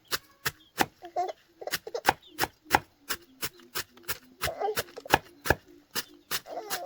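Steady chopping: sharp, evenly spaced blade strokes, about three a second, with a few short vocal sounds in between.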